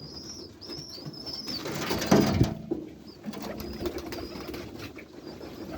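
Domestic pigeons in a loft: thin high chirps at first, a burst of wing flapping about two seconds in, then low rolling cooing.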